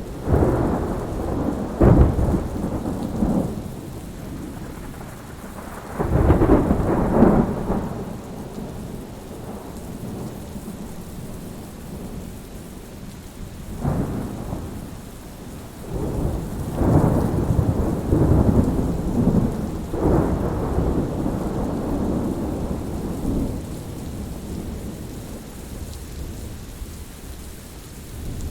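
Thunderstorm: steady rain with repeated rolls of thunder, the loudest cracks and rumbles about two seconds in, around six to eight seconds, and again from about sixteen to twenty-one seconds.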